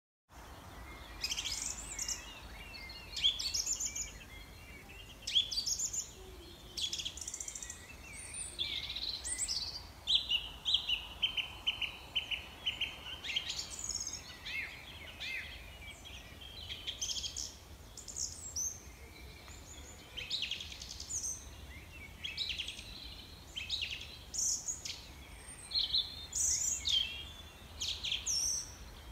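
Birds chirping and singing in many short, varied phrases, one after another throughout, over a steady low hum.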